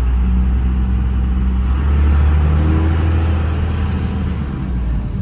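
Tuned diesel pickup truck engine running loud with a steady low note, swelling louder about two seconds in and easing off near the end.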